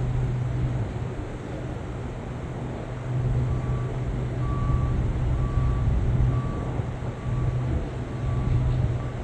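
A vehicle's reversing alarm beeping about once a second, seven beeps starting a few seconds in, over a steady low engine hum.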